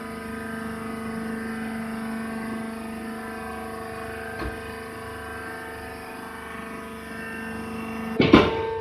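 Hydraulic sawdust baler's power unit running with a steady hum, with a single knock about halfway through and a loud clank near the end.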